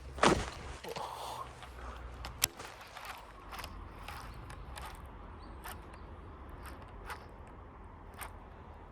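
Baitcasting fishing reel being cranked on a slow big-bait retrieve, its gears ticking about twice a second. A short loud rush of noise comes just after the start.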